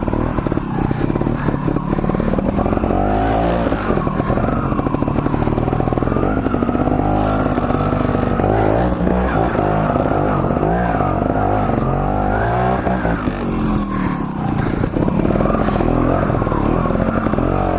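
Trials motorcycle engine running as the bike is ridden slowly, its revs rising and falling over and over with the throttle.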